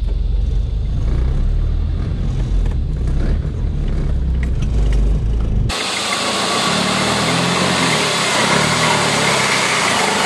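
Toyota Hilux's 3.0 turbo diesel running with a steady low rumble during a winch pull up a rock ledge. About six seconds in, the sound switches abruptly to a harsh, hissy mechanical noise and the rumble drops away.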